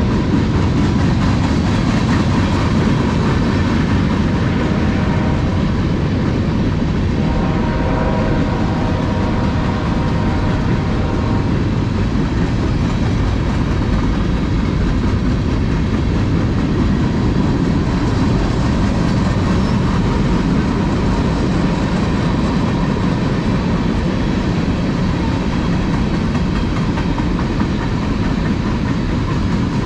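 Manifest freight train's cars rolling steadily past on steel wheels, loud and continuous, with wheel clatter over the rail.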